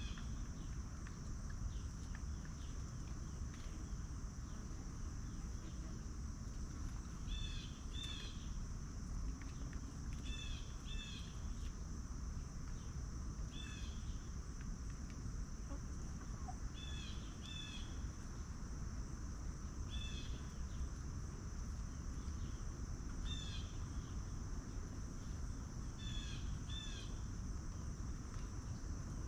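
Steady high-pitched insect buzz over a low outdoor rumble, with a bird repeating a short call every two to three seconds, often twice in quick succession.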